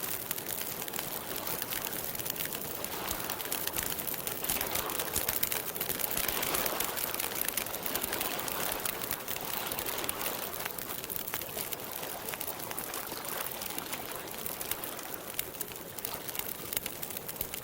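Wood campfire crackling steadily, with many small pops, over a soft wash of lake water.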